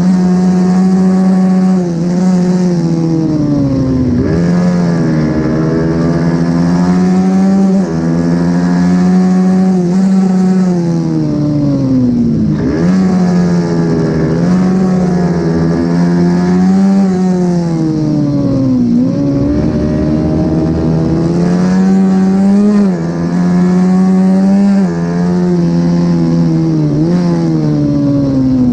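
Mini racing motorcycle's single-cylinder engine at high revs under race load, the pitch climbing through each gear and falling sharply several times as the rider brakes and downshifts for corners, over a steady hiss of wind and spray.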